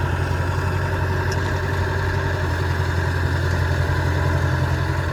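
Heavy diesel machinery engine running steadily with a low, even hum.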